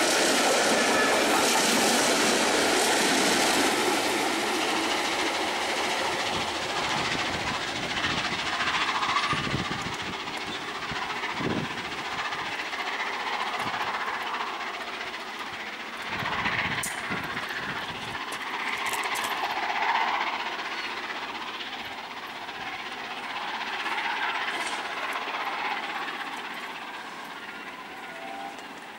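Steam-hauled train of coaches passing close by, its wheels rumbling and clattering over the rails. The sound falls away steadily as the train draws off into the distance, with a few swells along the way.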